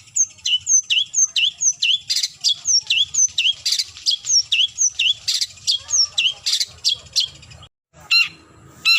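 Long-tailed shrike giving a fast run of sharp, downward-slurred call notes, about three a second, then after a brief dropout near the end, harsh squawking calls. These are the challenge calls it uses to call out a rival.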